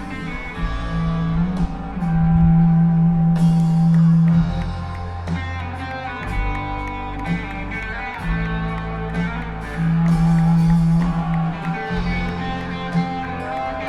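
Live rock band playing an instrumental passage: electric guitar holding long notes over a heavy bass line and drums.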